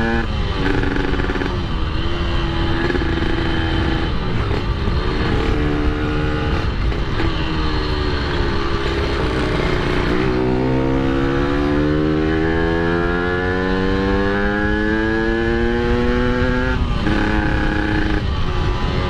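Yamaha RX-King's single-cylinder two-stroke engine under way, revving up and dropping back through several gear changes. From about ten seconds in, the revs climb steadily in one long pull and then fall away near the end, over steady wind and road noise.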